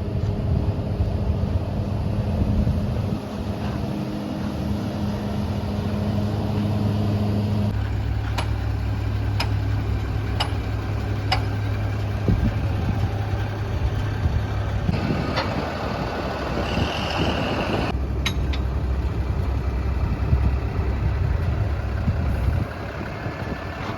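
Tata Prima dump truck's diesel engine running steadily, its note dropping slightly about eight seconds in. Four sharp clicks follow about a second apart, and later a rushing, hiss-like burst lasts about three seconds.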